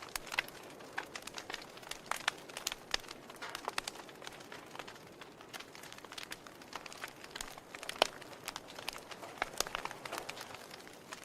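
Wood fire burning in a fireplace, logs crackling with many irregular sharp pops over a soft steady hiss, one louder pop about eight seconds in.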